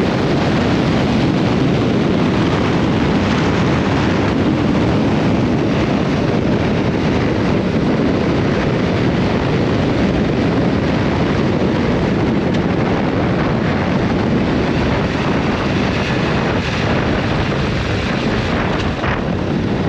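Steady rush of wind over the camera microphone while riding a Yamaha R7, its 689 cc parallel-twin engine running underneath the wind noise.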